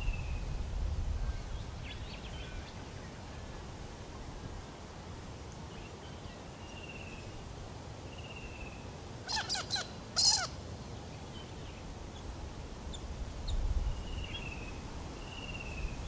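Birds calling: a short, falling whistle repeated every second or two, and about nine seconds in a loud burst of rapid chirps, two quick bursts in a row. A low rumble sits under the start and the end.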